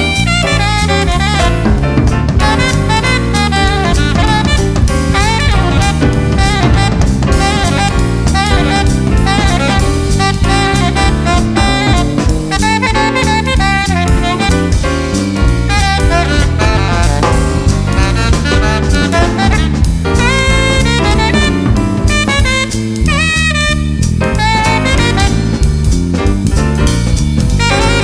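Jazz band playing: a saxophone carries the melody over a drum kit and a stepping bass line.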